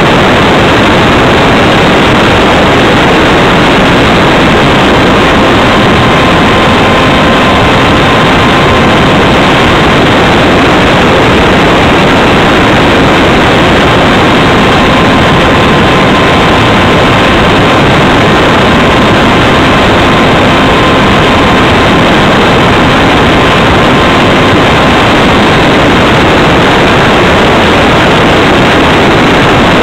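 Wind rushing over the microphone of a wing-mounted camera on a Radjet 800 foam RC plane in flight, mixed with the noise of its electric motor and propeller; loud and steady, with a faint high whine that comes and goes.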